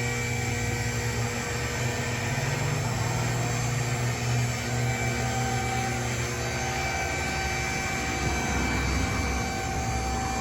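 A car engine running at a steady idle, a low drone that rises briefly and thickens between about two and four seconds in.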